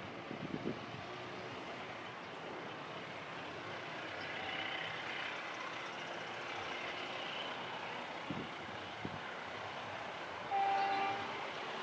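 Diesel-hauled train approaching slowly, a faint steady rumble, with one short horn blast about ten seconds in.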